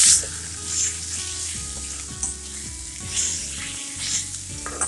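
Sliced onion, cabbage and capsicum frying with spice powders in a kadai, stirred with a slotted metal spatula. A steady light sizzle is broken by about five brief scrapes and tosses of the spatula, roughly one a second.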